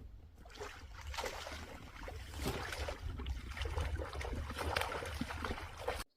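Water splashing and sloshing, dense and crackly over a steady low rumble, starting about half a second in and cutting off suddenly near the end.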